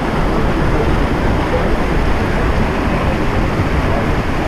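Waimea Falls pouring down close to the microphone: a steady, loud rushing of falling water.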